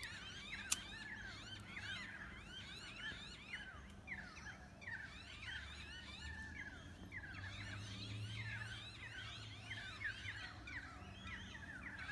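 Several birds calling together in a dense, continuous chorus of quick, overlapping whistled notes that sweep up and down in pitch. There is one sharp click about a second in.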